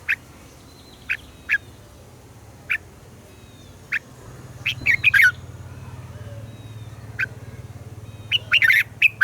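Red-whiskered bulbul giving short, sharp calls, singly at first and then in quick clusters about five seconds in and again near the end.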